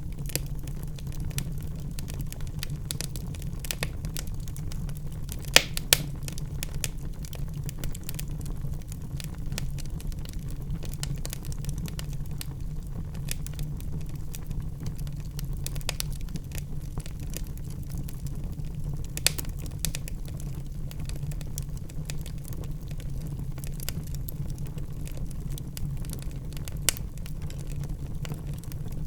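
Wood fire burning in a fireplace: a steady low rumble of flames with frequent small crackles and sharp pops from the burning logs, the loudest pops about five and a half seconds in, again just after, and near nineteen and twenty-seven seconds.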